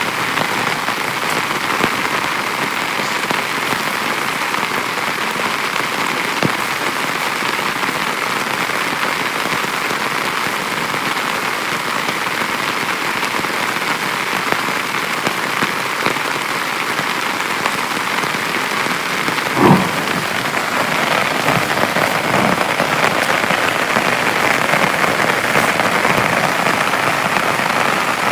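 Heavy rain falling steadily on a small tent, with scattered single drops heard as faint ticks. A sharper, louder drop or knock comes about two-thirds of the way through, and the rain grows a little heavier after it.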